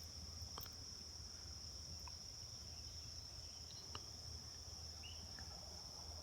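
Steady, unbroken high-pitched insect trill in the background, with a few faint clicks.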